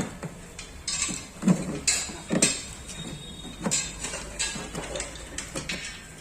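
Irregular knocks and metallic clinks from hand-tool work on car body panels, about eight in six seconds.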